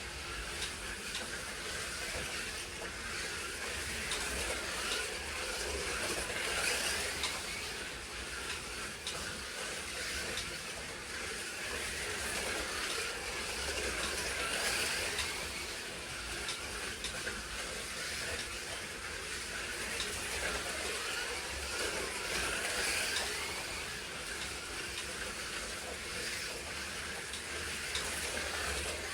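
Slot cars running laps on a slot car track: a steady hiss of small electric motors, pickup braids and tyres on the track. It swells about every eight seconds as the cars come past.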